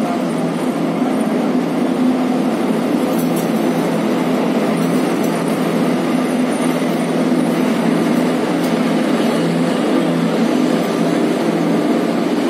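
Indian Railways electric locomotive hauling a passenger train past, with a steady hum and the even rumble of the coaches on the track.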